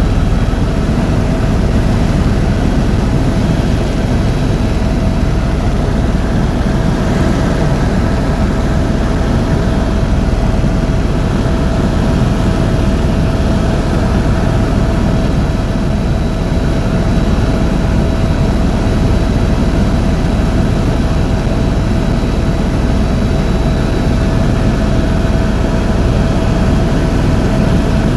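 Tour helicopter in flight: a steady, loud drone of engine and rotors with constant whining tones over it.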